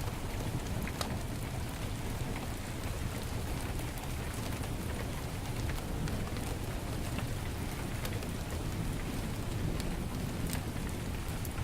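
Heavy rain falling steadily, over a low rumble, with scattered sharp crackles from a wood fire in a fireplace.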